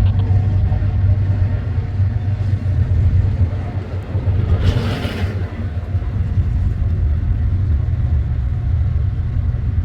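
Freight train rolling past with a steady, heavy low rumble, and a brief hiss about five seconds in.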